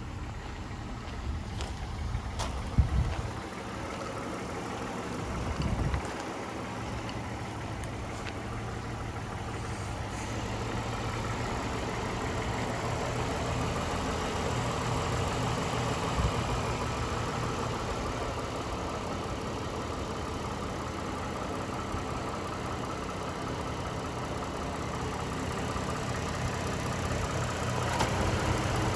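2012 Mazda CX-9's 3.7L V6 engine idling steadily, with a couple of low thumps in the first few seconds.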